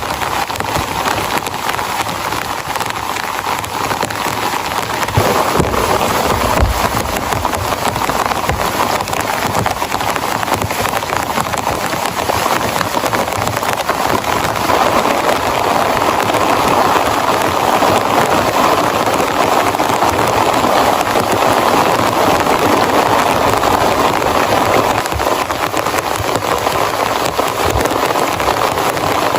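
Heavy rain falling in a dense, steady patter that grows heavier about five seconds in and again around the middle, with a few low knocks early on.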